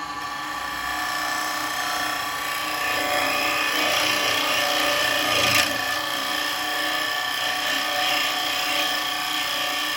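Wood lathe running steadily while a bowl gouge cuts the spinning bowl blank: a hiss of cutting over the lathe's whine. The hiss grows louder after about two seconds, with a brief sharper scrape about halfway through.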